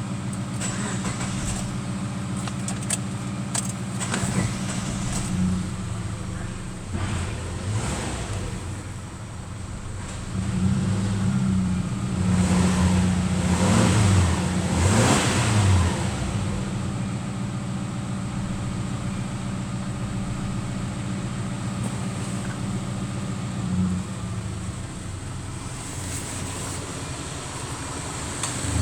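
Subaru Outback's boxer engine running, idling steadily, with the revs raised and let fall a few times between about ten and sixteen seconds in before it settles back to idle.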